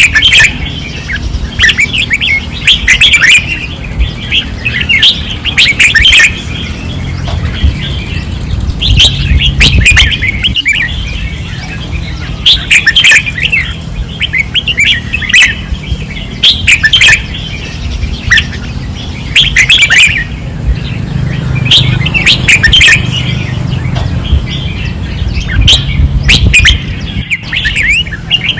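Red-whiskered bulbuls singing hard in short, repeated bright phrases every second or two, with sharp clicks among them and a steady low rumble underneath.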